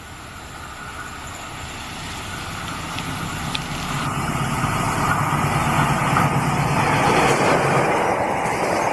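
A diesel locomotive hauling a passenger express approaches at speed. Its engine drone grows steadily louder as it closes in, and near the end the coaches start rushing past.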